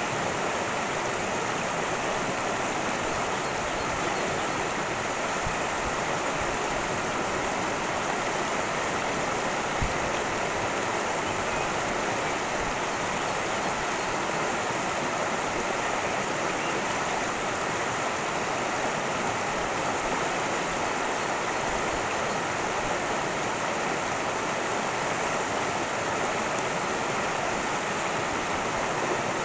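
Cascading stream: water rushing and splashing steadily over rocks.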